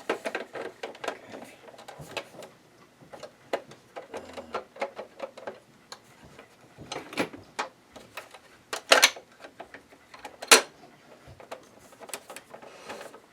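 Irregular clicks, taps and knocks of a screwdriver and the plastic casing of a Janome ME4014 sewing machine being handled while its back panel is taken off, with two louder clacks a little past the middle.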